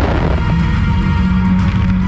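Loud show music with a steady beat, over the crackle of a fireworks burst dying away in the first half-second.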